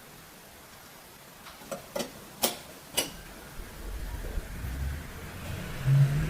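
Four sharp metallic clicks in quick succession, then a low mechanical rumble and hum that builds toward the end, from the parts of an antique sewing machine being handled and worked.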